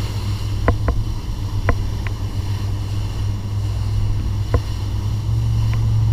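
Motorboat running with a steady low rumble and wind on the microphone, broken by a few short knocks.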